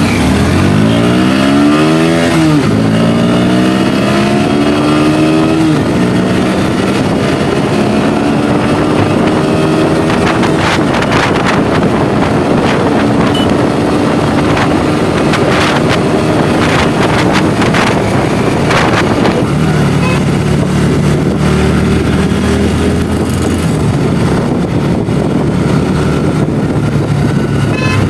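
Kawasaki Ninja ZX-10R inline-four engine accelerating hard, the revs climbing and dropping at an upshift about two and a half seconds in, then climbing again until about six seconds in. It then runs at a steadier pitch that shifts slowly.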